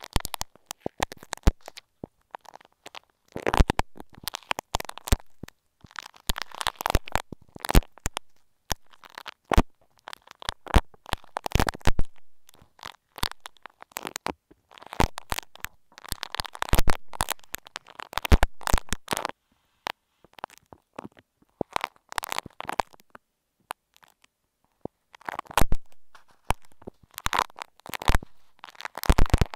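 Bumpy beaded clay being squeezed and picked at right on an earphone microphone: close, sticky crackling and clicking in clusters, with short pauses between them.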